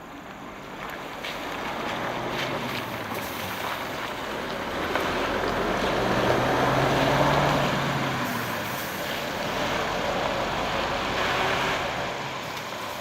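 Hino Selega express coach driving past. Its engine and road noise build to a peak about seven seconds in and then fade.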